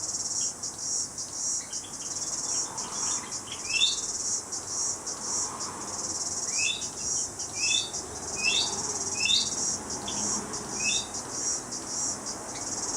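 Steady, rapidly pulsing high-pitched trill of insects, with short rising bird chirps repeated now and then over it, several in a row from the middle of the stretch onward.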